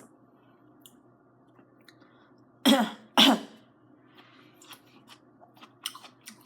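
A person coughs or clears their throat twice in quick succession, about half a second apart, near the middle. Faint scattered clicks follow.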